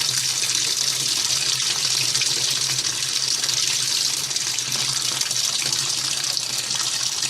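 Water running into the tub of an 8 kg Universal top-loading washing machine as it fills for a tub-cleaning cycle: a steady rushing hiss with a low steady hum beneath.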